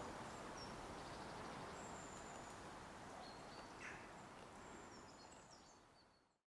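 Faint outdoor ambience with a few short, high, thin bird calls, fading out to silence near the end.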